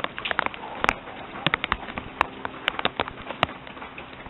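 Rain: drops striking close to the microphone as sharp, irregular taps, a few a second, over a steady light patter.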